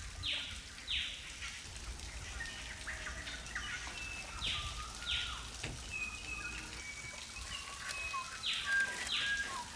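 Birds calling in the forest. Pairs of quick falling calls come about every four seconds, with short whistled notes scattered between them over a faint background hiss.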